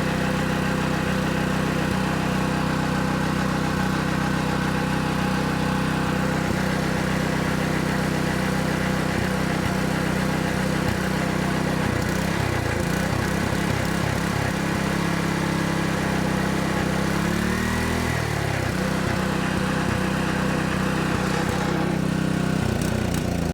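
Honda GX200 single-cylinder four-stroke engine on a water pump, running steadily. Its speed wavers partway through, then dips and rises before settling again. It runs only on full choke, which the owner takes for a carburettor problem still not fixed. The sound cuts off suddenly at the very end.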